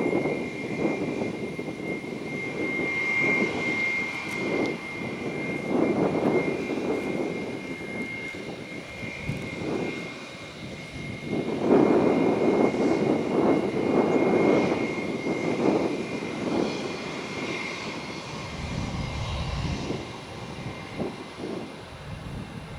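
Jet airliner engines running nearby, a steady high whine over a rough rumble that swells and fades, loudest about twelve seconds in.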